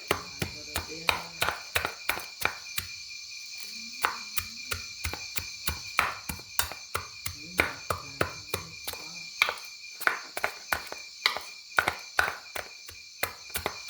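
Quick, irregular chopping or knocking strokes, roughly three a second, over a steady high drone of insects.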